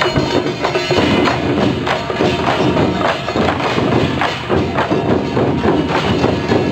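Loud percussion music: a dense, unbroken run of strikes over some steady ringing tones.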